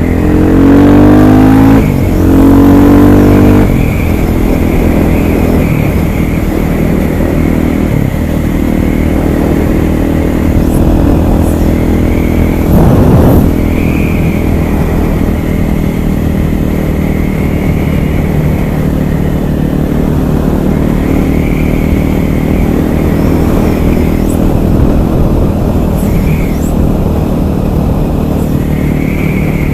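KTM 500 EXC supermoto's single-cylinder four-stroke engine under way, revving up through two gears in the first few seconds, then running at a steady cruise with one more short burst of throttle about 13 seconds in.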